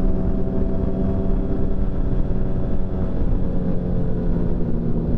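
Motorcycle engine running at a steady cruising speed, with wind rumbling on the microphone.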